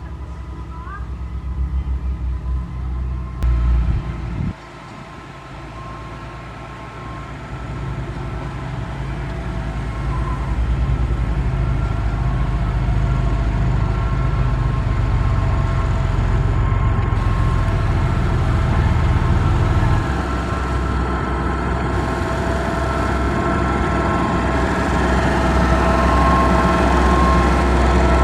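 Heavy diesel engine of a motor grader running under load, a steady low rumble with a steady whine above it. It drops abruptly about four seconds in, then grows louder again from about eight seconds.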